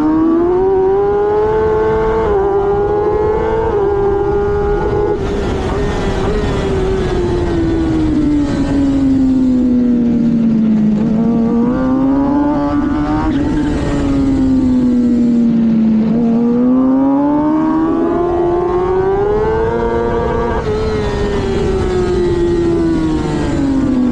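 2024 Kawasaki ZX-10R's inline-four engine at racing speed, heard on board: two quick upshifts in the first few seconds, then the engine note repeatedly falls and rises again as the bike slows for corners and accelerates out of them.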